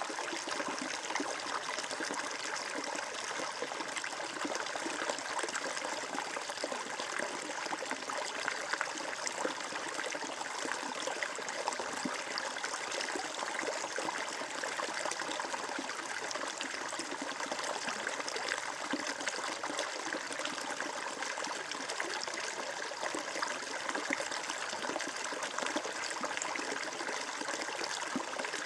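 Water flowing and trickling steadily, a small stream running over stones with a continuous bubbling splash.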